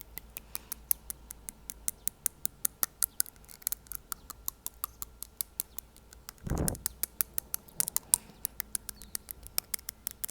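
Fingernail tapping on teeth: a quick, uneven run of sharp clicks, several a second, close to the microphone. About two-thirds of the way through, a brief low rush of air is heard.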